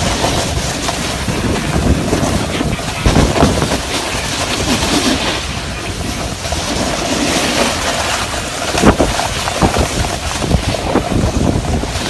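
A car being driven hard, its engine and tyre noise mixed with heavy wind buffeting on the microphone, with a couple of sharp knocks.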